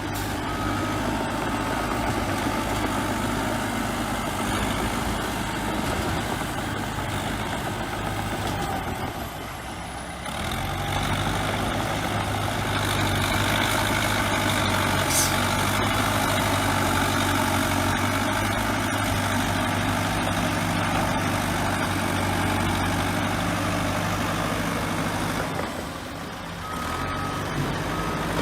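Bulldozer diesel engine running steadily, with a reversing alarm beeping near the start and again near the end.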